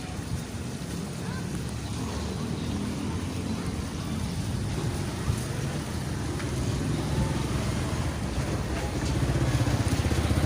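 A motor vehicle's engine running and getting steadily louder as it approaches.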